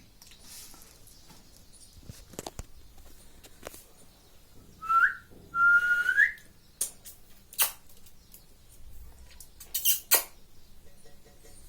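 Ring-necked parakeet whistling two clear notes about five seconds in: a short rising one, then a longer held one that slides up at its end. Scattered sharp clicks sound around it.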